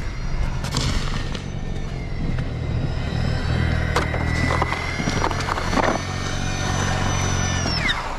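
An engine running steadily with a high whine over it, and a few knocks; near the end the whine drops sharply in pitch as the revs fall.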